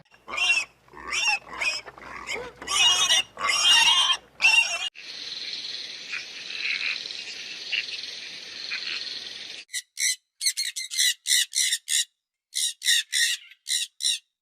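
A series of different animal calls. For about five seconds there are separate pitched calls, then a steady high hiss with a few faint chirps, and from about ten seconds in a quick run of short, high chirps.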